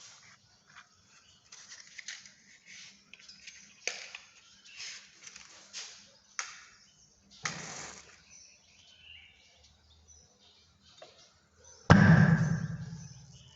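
Hydrogen gas igniting at the mouth of a test tube with a single sudden pop about twelve seconds in, dying away over a second or so, after faint clicks and handling noises. The pop is the positive test for hydrogen.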